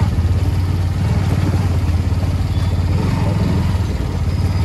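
Vehicle engine running steadily with a rapid low firing pulse.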